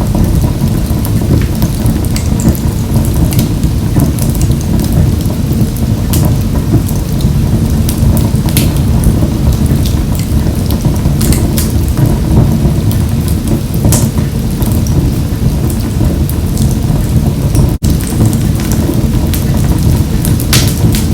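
Wood fire burning in a wood-burning stove: a steady low rumble of flames with frequent sharp crackles and pops throughout, broken by a split-second gap near the end.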